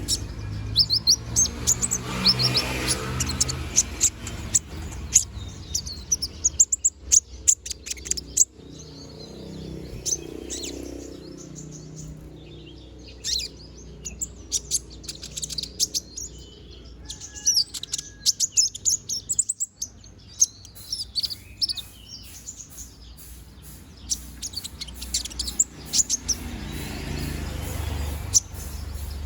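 Van Hasselt's sunbird (kolibri ninja) singing in busy runs of high, thin, quick chirps and twitters, with short gaps between runs.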